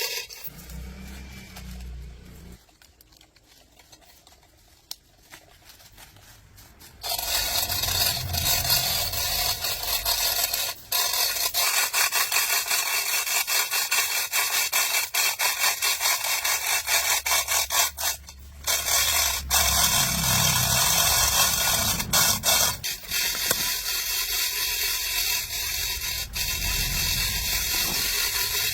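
A harsh scraping of a tool working a surface, continuous from about seven seconds in, breaking off briefly twice.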